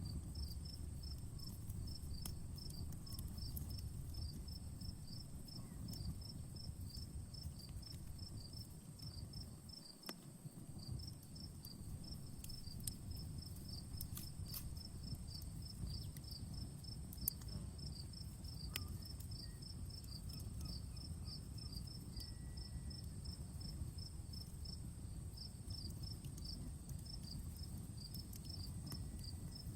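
Campfire crackling with scattered sharp pops over a low steady rumble, while crickets chirp in a steady rhythm of several chirps a second and a high insect drone holds steady.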